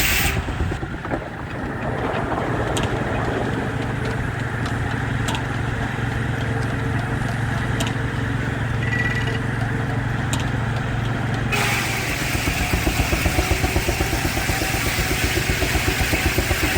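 Baker steam engine driving a sawmill: a steady low hum for most of the stretch, then rhythmic exhaust beats, several a second, during the last few seconds.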